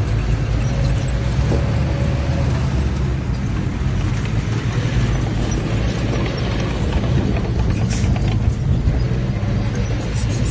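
Heavy diesel earthmoving machinery running steadily with a low engine rumble, with a brief clank about eight seconds in.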